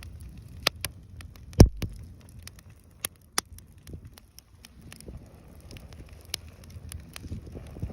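Wood bonfire crackling, with irregular sharp pops over a low rumble; the loudest pop comes about one and a half seconds in.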